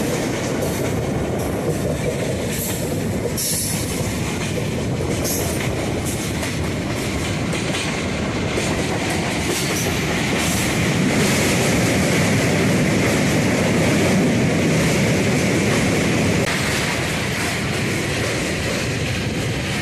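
Passenger train running at speed, heard from its doorway: a steady rumble and clatter of the wheels on the rails, louder for several seconds in the middle. Near the end the train is out on a steel truss river bridge.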